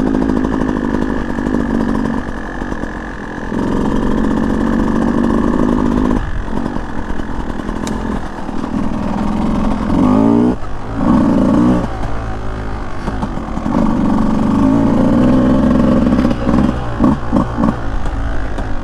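Beta 200 two-stroke dirt bike engine running under load on a trail, its revs rising and falling with the throttle. It climbs quickly in pitch about ten seconds in, and near the end the throttle is blipped several times in quick succession.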